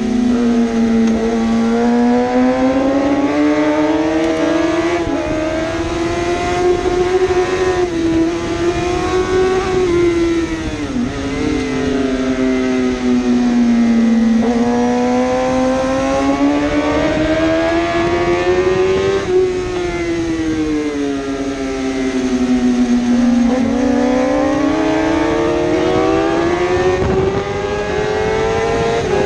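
1000cc superbike engine running at high revs, its pitch climbing slowly and falling away again about three times as the bike accelerates and slows, with one brief sharp dip partway through.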